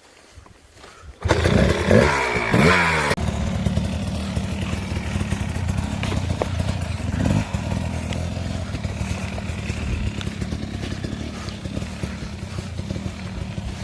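Dirt bike engine firing up about a second in and being revved a few times with rising and falling pitch, then running steadily.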